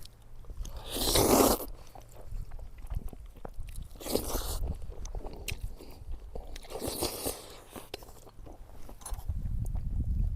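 A person eating close to the microphone: chewing with many small wet clicks, and three short, louder noisy bursts about a second, four seconds and seven seconds in.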